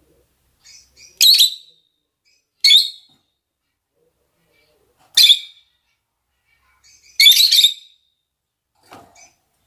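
Lovebirds (rosy-faced and Fischer's) giving mating calls: three short, high-pitched shrieks a second or two apart, then a longer run of calls about seven seconds in and a faint call near the end.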